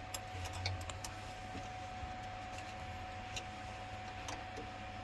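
Light clicks and taps of hand tools on boiler fittings, several in quick succession in the first second and a few single ones later, over a steady faint hum.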